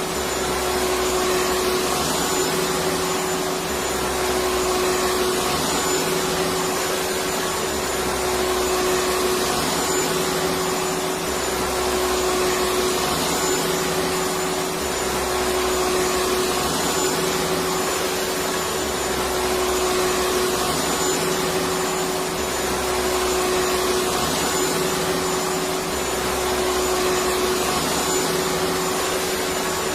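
Electric vacuum cleaner running steadily: an even motor and airflow hiss with a constant whine, and a low hum that swells and fades every few seconds.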